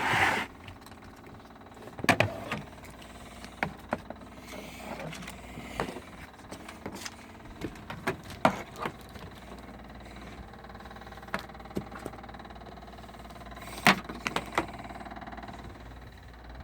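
Scattered clicks, knocks and rustling as an extension cord is handled, over a faint steady hum. The sharpest knocks come at the start, about two seconds in, and near the end.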